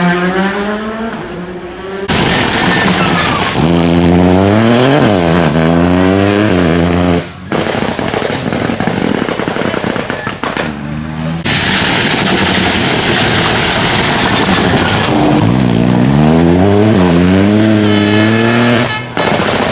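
Rally cars at full throttle on a special stage, engines revving up and falling back through quick gear changes, in several short passes cut one after another. A stretch of loud hiss in the middle, with no engine note above it.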